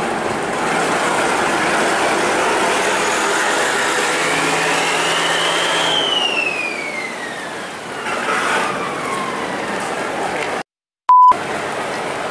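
An engine running steadily amid a noisy hiss, with a whine that rises for a couple of seconds and then slides back down. Near the end the sound cuts out completely around a short, loud, high beep.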